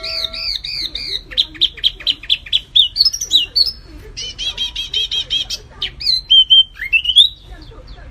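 Songs of wambi mini and kapas tembak songbirds: loud, varied strings of quick chirps, repeated arched notes and short whistles, one phrase running into the next.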